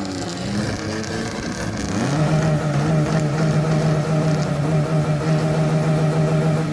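A vehicle engine revved up about two seconds in and held at steady high revs for several seconds, then let back down near the end.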